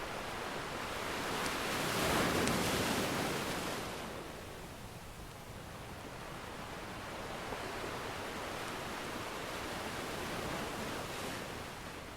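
Ocean surf washing ashore: one wave swells up and breaks about two seconds in, and a gentler one builds later. A few faint crackles from a fireplace fire sound over it.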